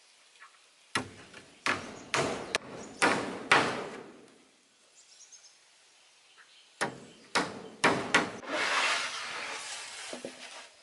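Irregular knocks and thumps in two bunches, the second running into a rough scraping or rustling sound that lasts about two seconds.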